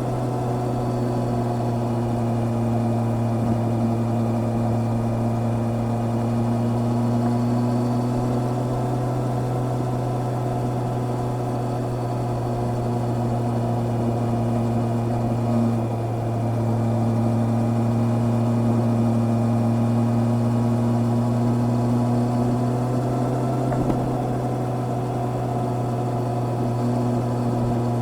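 Honda CB650R's inline-four engine running at a steady cruise: an even, steady drone with a slight rise in level about halfway through.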